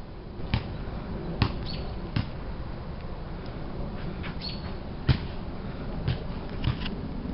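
A handful of scattered knocks and taps, irregularly spaced, the loudest about five seconds in, over a steady low rumble.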